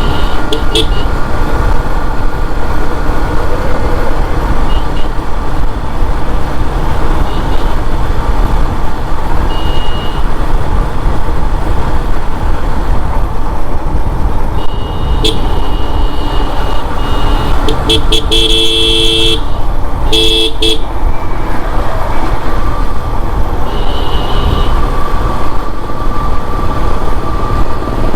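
Riding a Yamaha FZS motorcycle: steady wind and engine rumble with short horn toots several times along the way. About two-thirds of the way through comes a louder, fuller horn in two blasts.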